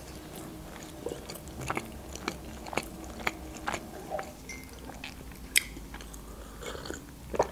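A person chewing a mouthful of food, with a run of soft, irregular wet mouth clicks, and a sip from a mug near the end.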